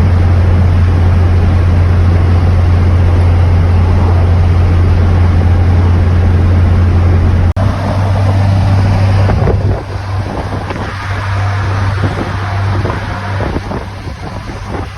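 Moving vehicle with a steady low drone and wind rushing over the microphone. There is a sudden break about seven and a half seconds in, and the sound is quieter and choppier from about ten seconds on.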